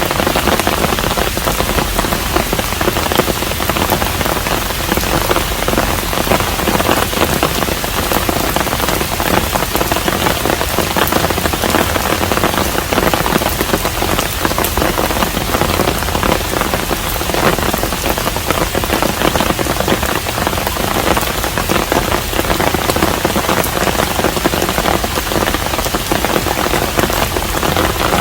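Steady rain falling on a hanok, a traditional Korean house, a dense even patter of many drops.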